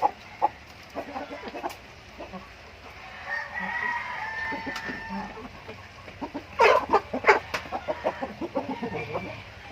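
Aseel rooster crowing once, a drawn-out call starting about three seconds in, then a burst of loud short clucks and squawks about a second later, trailing off into quicker short clucks.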